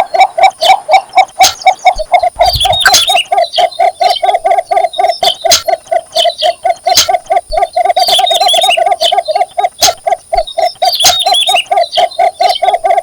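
Cinnamon bittern giving its courtship call: a long, even series of low notes repeated about four times a second. A few short, high chirps from another bird come in three times.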